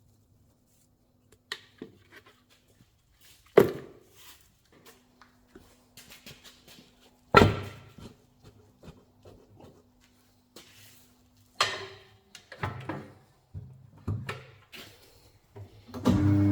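Workshop clunks and knocks of parts and tools being handled, with three loud sharp knocks about four seconds apart among smaller taps, over a faint steady hum. Music starts right at the end.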